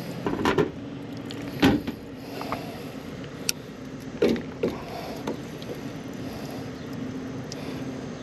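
Steady hum of running rooftop air-conditioning equipment, with scattered knocks and clicks of metal and plastic parts being handled: about half a second in, at one and a half seconds, and again around four seconds.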